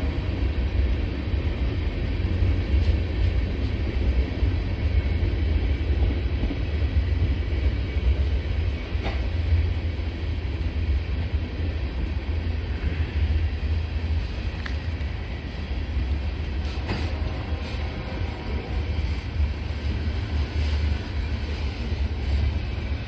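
BNSF freight train's cars rolling past: a steady low rumble with a few sharp clanks.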